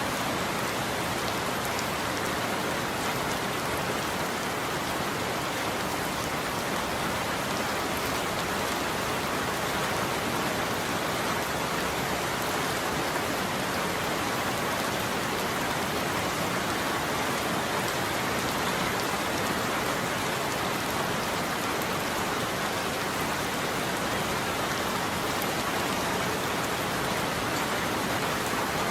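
Steady rain falling, an even, unbroken hiss of drops on a surface with no change in strength.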